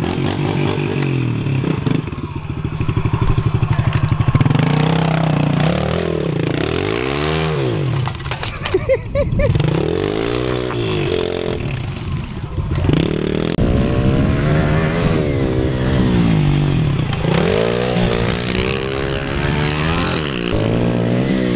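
Small four-stroke pit bike engine ridden around a dirt track, revving up and easing off again and again as the rider works the throttle through the corners, with a short drop in engine sound about eight seconds in.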